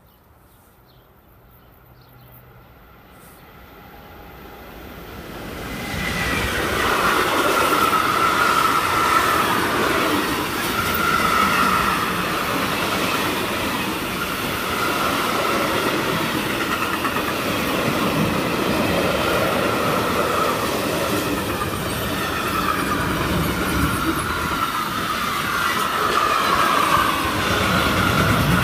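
Freight train hauled by an electric locomotive approaching and passing close by. A rumble swells over the first few seconds as the locomotive nears, then the wagons rush and clatter steadily over the rails, with high wheel squeal coming and going.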